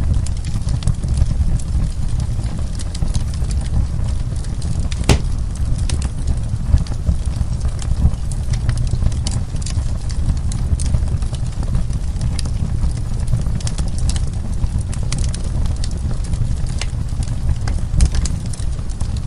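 Wood fire burning in a fireplace: frequent sharp crackles and pops over a steady low rumble, with one louder pop about five seconds in.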